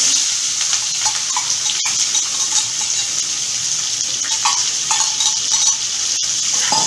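Sliced onions and green chillies dropped into hot oil in a kadai, sizzling steadily from the moment they land, with a few small pops.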